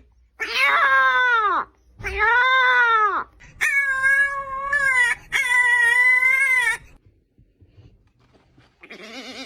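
A pet animal gives four loud, long drawn-out calls, each about a second or more. The first two arch and fall away at their ends, and the last two are held level with a wavering pitch. A fainter call comes near the end.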